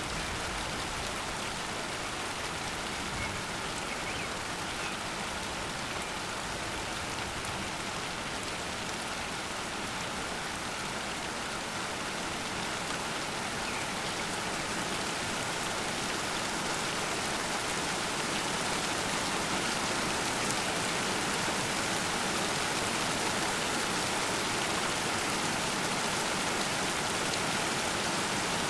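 Heavy thunderstorm rain in a steady downpour, an even hiss of rainfall. It grows a little louder and heavier around the middle and then holds steady.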